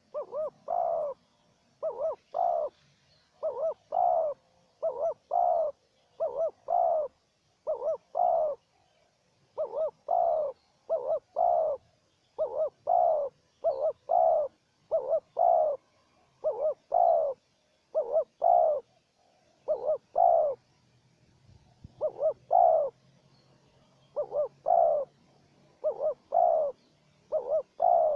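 Spotted doves cooing, a decoy and a wild bird calling against each other. The phrases follow one another about every second and a half, each a couple of quick notes and a longer coo.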